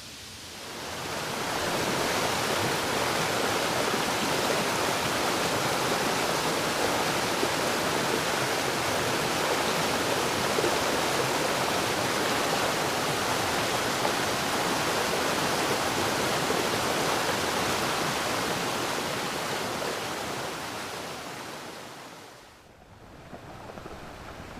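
Steady rushing noise of a nature-ambience track, with no tune or rhythm. It fades in over the first couple of seconds and fades down again a few seconds before the end.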